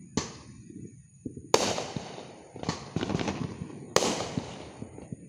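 Fireworks bursting: a string of sharp bangs, three louder ones roughly a second and a half apart, each trailing off, with smaller crackling pops between them.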